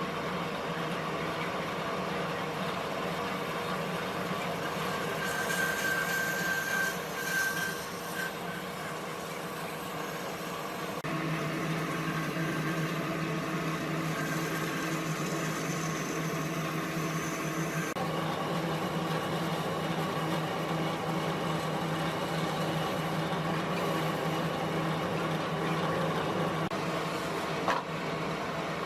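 A motor-driven woodworking machine running steadily; its tone shifts about a third of the way in and again a little past halfway, with a brief click near the end.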